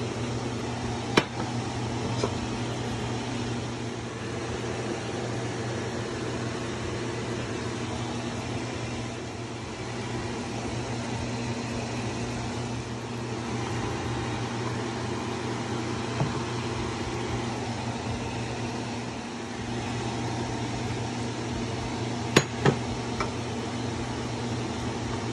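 Steady mechanical hum and hiss of a kitchen while a pan of sauce cooks. A few sharp clinks and knocks of cooking utensils against the stainless steel pan stand out: one about a second in, a smaller one later, and a quick pair near the end while a wooden spatula stirs the vegetables.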